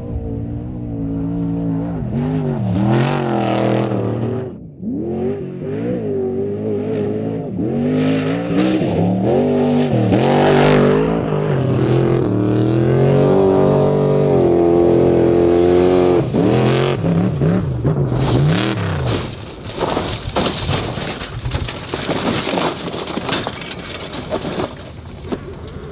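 Off-road race truck engine revving hard, its pitch climbing and dropping again and again as the throttle is worked, then giving way to a harsh, noisy rush in the second half.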